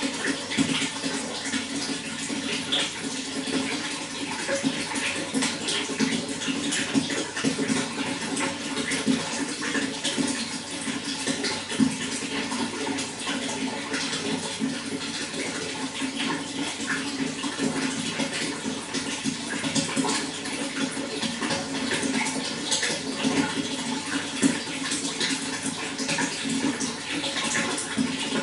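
Running water flowing steadily, a continuous rush with many small splashes throughout.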